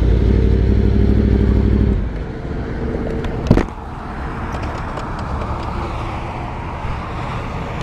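Motorcycle engine idling, its level dropping sharply about two seconds in, with a single sharp knock about a second and a half later, then a lower steady road and traffic noise.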